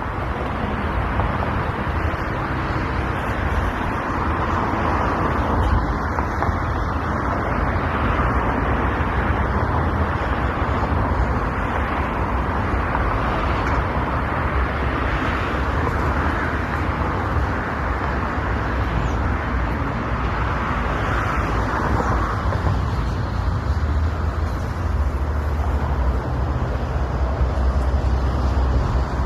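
Steady road traffic noise, with vehicles passing now and then and swelling up several times.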